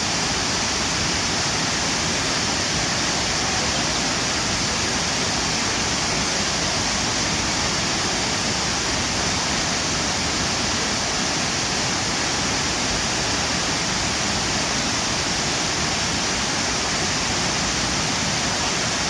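Waterfall: water pouring and splashing in a steady, unbroken rush, with a bright hiss.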